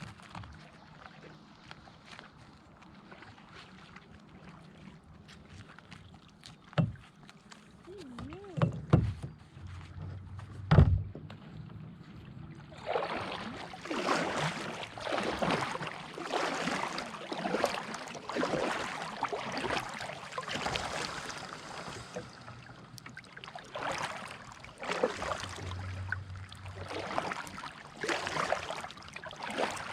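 A few sharp knocks against the kayak, then steady kayak paddling: repeated paddle strokes swishing and splashing through the water.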